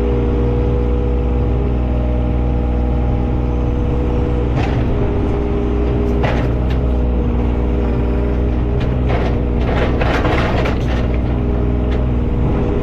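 An engine runs steadily throughout. It is joined by short bursts of scraping and clatter, twice early and then in a longer cluster around ten seconds in.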